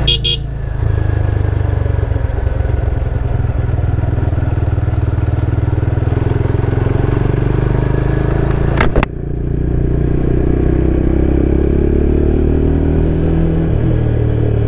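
Motorcycle engine running steadily while the bike is ridden, with a single sharp click about nine seconds in.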